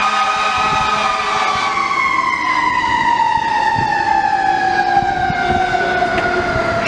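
Federal Q2B mechanical siren on an FDNY fire truck winding down, its wail falling slowly and smoothly in pitch throughout.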